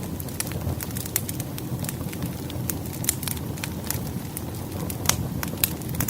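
Firewood burning in a fireplace: a steady low rumble of flame with sharp, irregular crackles and pops, a few louder snaps among them.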